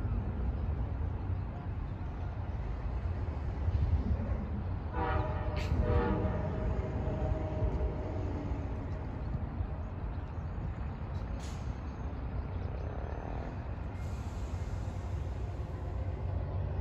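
Amtrak California Zephyr passenger train rolling away, its bilevel cars making a steady low rumble on the rails. About five seconds in, a short horn blast from the distant lead locomotive.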